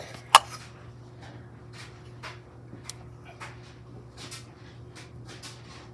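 One sharp click near the start, then a string of faint clicks and rustles from someone handling tools while working under a car, over a steady low hum.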